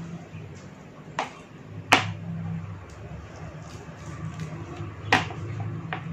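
Knife chopping on a cutting board: four sharp strikes at uneven gaps, the second the loudest, over a steady low hum.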